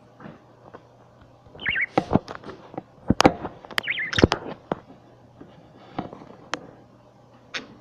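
Budgies making a couple of short chirps amid a burst of sharp taps and knocks about two to five seconds in, followed by a few scattered single clicks.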